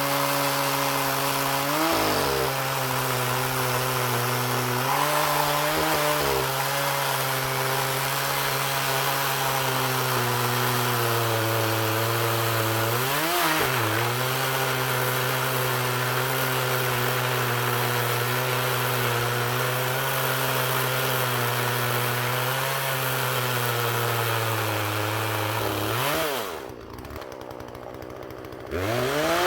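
Poulan chainsaw running at high speed, cutting into a tree trunk, with its engine note briefly sagging and recovering a few times. About three seconds before the end it drops to a quieter idle, then revs back up.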